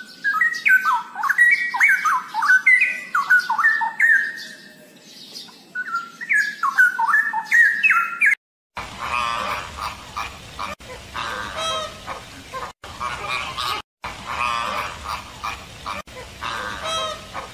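A chestnut-capped laughingthrush sings loud whistled phrases with sweeping notes. After about eight seconds the sound cuts abruptly to a flock of flamingos calling, many honking calls overlapping in a dense chorus, with a few brief dropouts.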